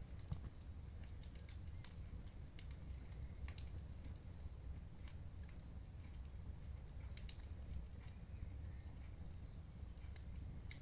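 Wood fire in a fireplace crackling: scattered sharp pops and clicks at irregular intervals over a low steady rumble.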